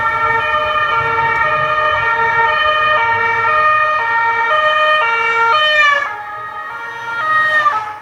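French two-tone (deux-tons) police siren alternating between a high and a low note, each held about half a second. About six seconds in the pitch sags and the siren falls away, then one note sounds briefly again near the end before cutting off.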